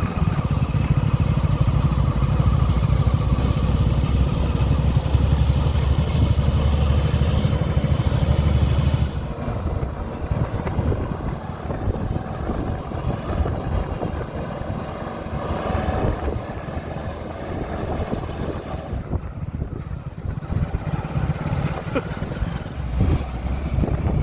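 JCB 3DX backhoe loader's diesel engine working hard, with a steady high whine, for about nine seconds, then dropping to a lower, uneven run. It picks up again near the end.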